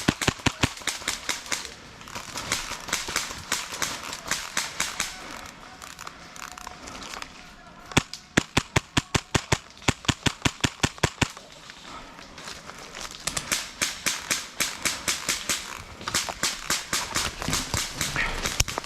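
Airsoft guns firing in rapid full-auto bursts, about ten sharp cracks a second, in several long strings with short lulls between them.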